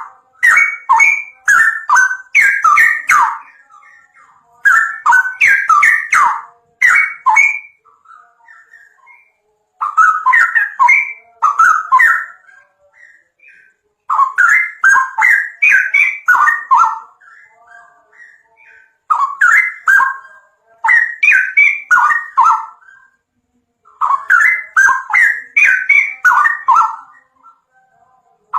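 A songbird chirping in quick, repeated bursts of rapid notes. There are about six bursts, each a couple of seconds long, with short pauses between them.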